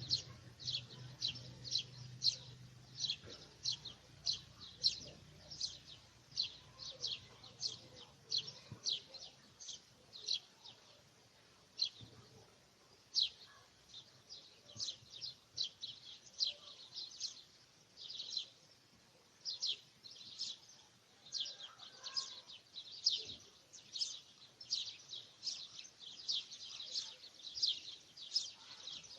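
Bird chirping: a long run of short, high, falling chirps, about two to three a second, with a few brief pauses. A faint low hum sits under the first several seconds.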